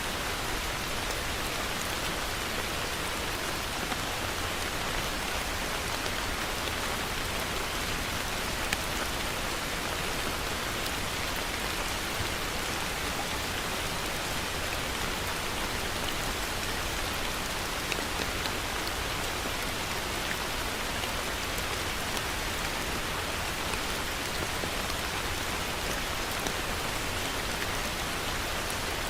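Heavy rain falling steadily: a dense, even hiss with small drop ticks here and there.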